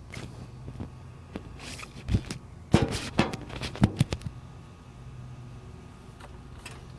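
A cluster of sharp knocks and clicks about two to four seconds in, over a steady low hum: the small two-stroke outboard motor being handled before its cold start, not yet running.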